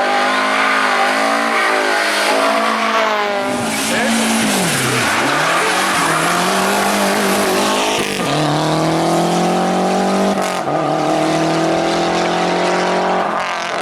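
Rally car engine run hard: its pitch falls sharply about four to five seconds in, then climbs again through the gears, with gear changes about eight and ten and a half seconds in.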